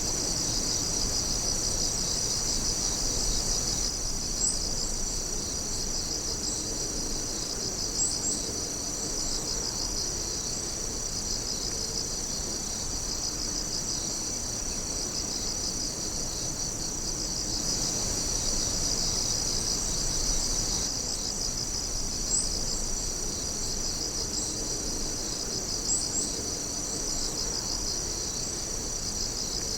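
A dense chorus of night insects trilling and chirping steadily, with a few brief higher chirps standing out over it.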